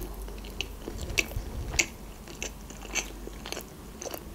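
A person chewing sushi rolls with the mouth closed, picked up close by the microphone: a string of short wet clicks of the mouth about every half second.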